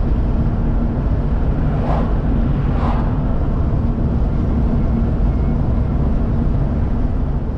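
Car driving, with a steady low road and engine rumble heard inside the cabin. Two faint ticks come about two and three seconds in.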